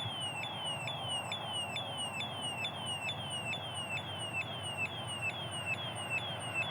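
Railway level-crossing electronic warning signal sounding: a high falling tone repeated evenly, about three times a second.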